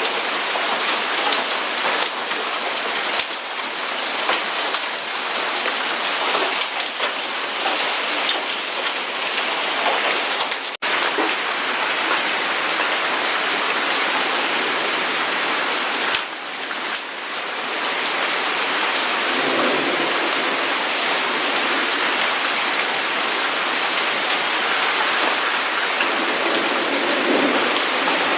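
Hail falling with heavy rain: a dense hiss of stones and drops striking surfaces, full of sharp individual hits. The sound breaks off for an instant about eleven seconds in.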